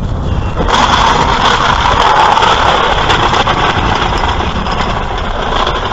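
Vehicle driving on the road: a steady low engine rumble under loud road and wind hiss, which swells up less than a second in.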